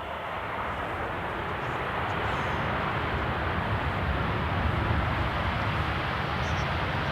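Jet airliner's engines passing close by, a broad rushing noise that grows louder over the first few seconds and then holds.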